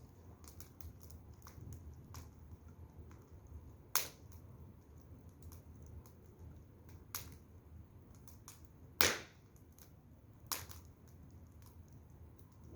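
Firewood fire crackling, with small ticks throughout and four sharp pops, the loudest about nine seconds in.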